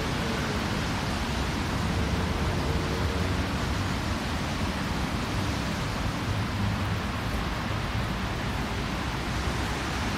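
Steady hiss of falling rain, an even noise with no distinct drops or breaks.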